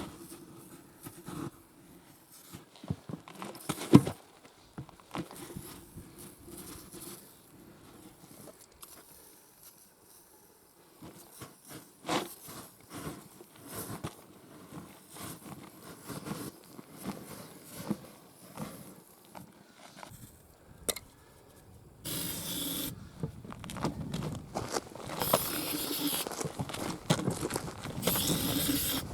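Scraping and clicking as a motorcycle tyre and wheel are handled, with one sharp knock about four seconds in. Near the end come hissing bursts from an aerosol deodorant can being sprayed into the tyre, a last-resort trick for seating the bead.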